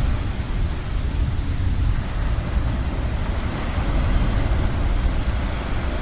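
Ocean surf washing steadily, a continuous noise with a deep low rumble underneath and no distinct breaks.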